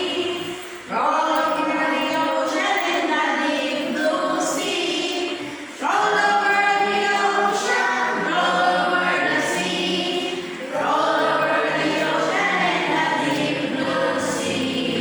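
A group of voices singing together, a congregation or choir, in long held phrases with brief breaks about a second in, near six seconds and near eleven seconds.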